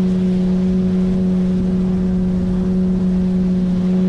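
9.8 hp outboard motor running at a steady speed, pushing an inflatable boat along, with one constant engine note and rushing noise underneath.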